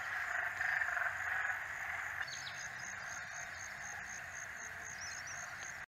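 A dense chorus of many frogs calling at once, with a high, quick chirp repeating about three times a second from a little over two seconds in. The chorus fades slowly and cuts off at the end.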